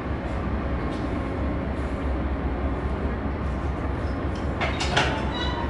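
Steady low rumble of a stationary diesel-hauled Amtrak passenger train idling at the platform. A couple of brief sharp noises come about five seconds in.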